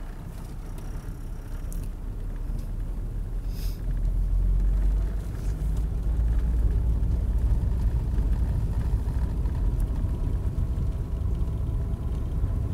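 Inside a moving car: a steady low rumble of engine and tyres on a snowy road, growing louder about four seconds in.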